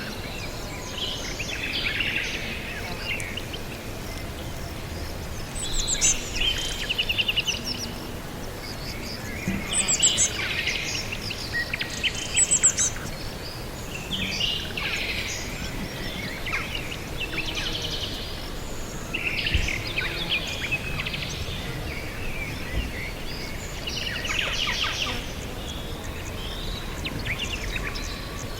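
Several small birds chirping and trilling in quick bursts every second or two, over a steady background hiss.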